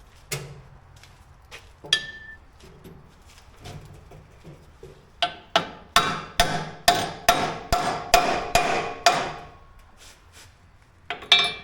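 Hammer striking steel: a few scattered knocks, then a run of about a dozen ringing blows at about three a second, and a last clank near the end.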